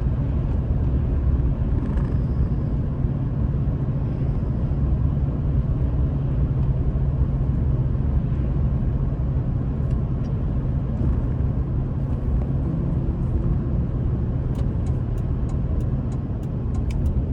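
Truck driving, heard from inside the cab: a steady low engine and road rumble. A run of quick, light, evenly spaced ticks comes in near the end.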